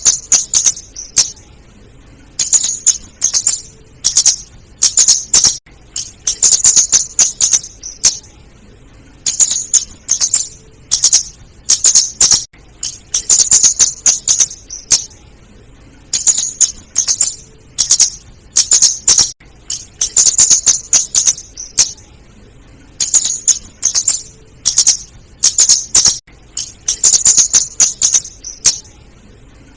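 Female flowerpecker (kemade, cabe-cabean) calling: rapid runs of very high, sharp chips in bursts of about a second, repeated every couple of seconds.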